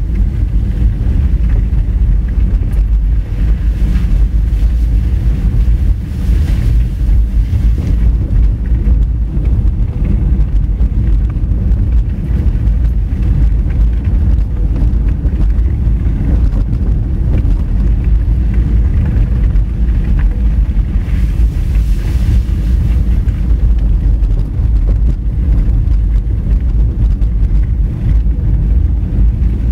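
Honda Fit driving on a rough gravel road: a loud, steady low rumble of tyres on loose stones and the car running, with some wind noise on the microphone.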